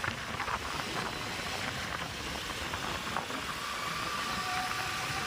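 Steady noise of a moving road vehicle, with a few light clicks in the first two seconds and a thin, steady high tone in the last second and a half.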